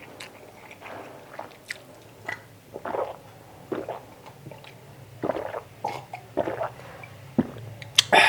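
Close-up chewing and mouth sounds of someone eating chicken adobo, in irregular wet bites and smacks, with a sharp click near the end.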